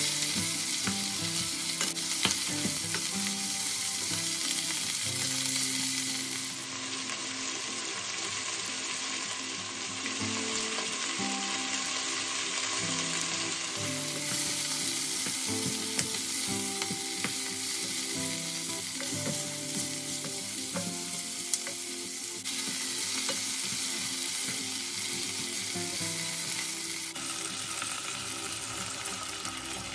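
Food sizzling steadily in hot oil in a pan while being stirred, with a few sharp clicks along the way.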